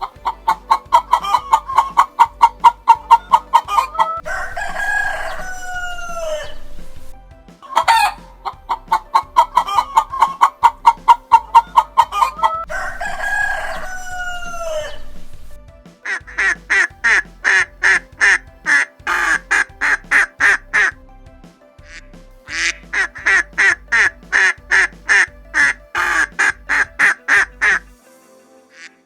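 Chickens calling: fast runs of clucks, with a long rising-and-falling crow twice, about four and thirteen seconds in. Two long runs of rapid, higher-pitched clucking follow, with a short gap between them.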